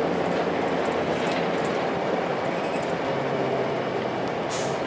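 Cabin noise of a 2002 Blue Bird 40-foot transit bus under way: its Cummins ISC diesel engine and drivetrain running steadily with road noise. A short hiss comes near the end.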